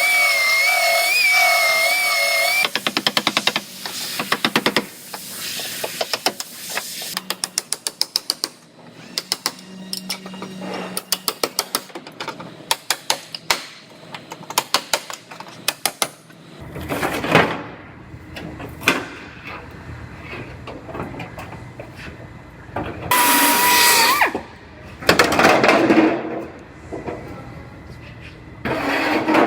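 Power tools working on a car's steel body panel. A steady, slightly wavering whine opens it, then comes a long run of rapid sharp clicks, then separate short bursts of tool noise.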